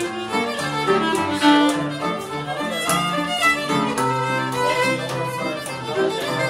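Irish traditional session music: fiddle playing a brisk tune, with a lower accompanying instrument sounding bass notes beneath.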